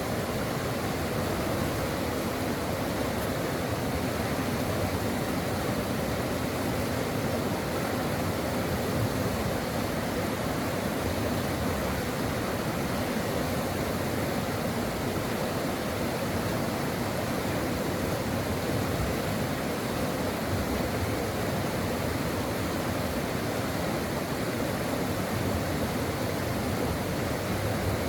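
Stream water rushing and babbling over rocks in a steady, unbroken wash of noise.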